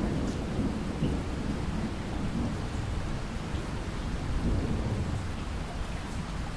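Steady rain over a continuous low rumble of thunder, with no sharp clap.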